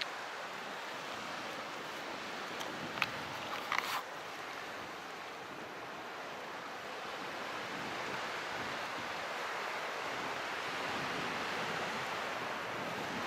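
Calm sea: a steady wash of small waves that swells slightly in the second half, with a few short clicks about three to four seconds in.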